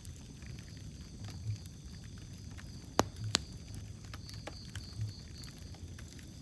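Wood fire crackling in a fireplace: a low steady rumble of flames with scattered small crackles, and two sharp pops close together about three seconds in.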